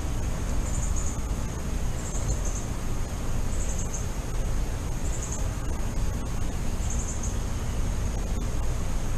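Steady low outdoor rumble, with a short high bird chirp repeating about every second and a half, five times.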